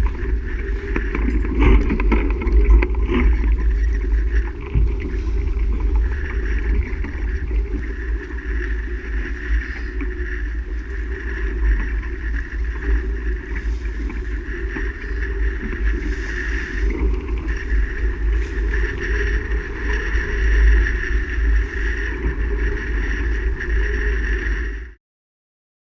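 Steady noise of a sailboat under way, with heavy low rumble on the microphone; it cuts off abruptly near the end.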